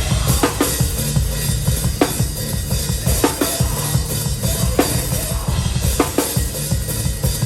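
Hardcore band playing loudly live, heard from close behind the drum kit: the full band comes in at once, with rapid bass drum under sharp snare hits about once a second.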